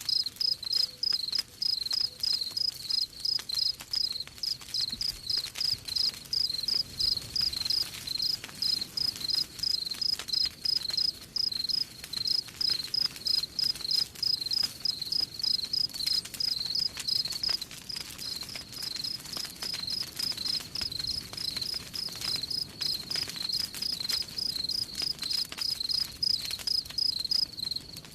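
A cricket chirping steadily and evenly, a few short high chirps a second, over a crackling wood fire with scattered sharp pops and snaps.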